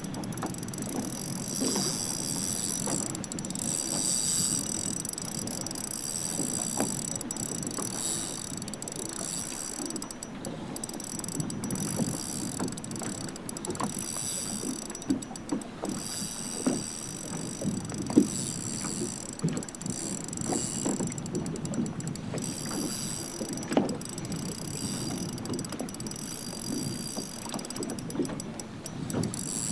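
Sounds aboard a bass boat on the water: a steady wash of wind and water with scattered knocks and taps, and a steady high-pitched whine that cuts out and returns several times.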